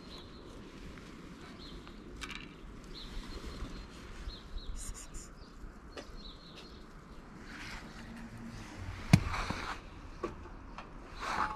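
Birds chirping faintly over outdoor background noise, with a single sharp knock about nine seconds in.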